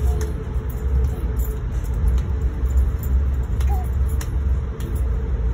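Passenger train running at speed, heard from inside the coach: a steady low rumble with a steady hum over it and a few faint clicks.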